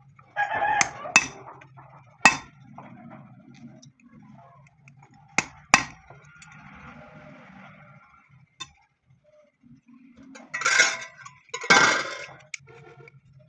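Metal tools and parts clinking and knocking during clutch plate work, with several separate sharp strikes. Near the end come two short, louder rushes of noise.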